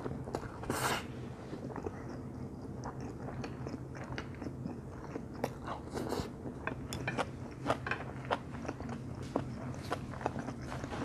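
Close-up mouth sounds of eating stir-fried instant noodles: a short slurp of noodles about a second in, then steady wet chewing with many small irregular clicks.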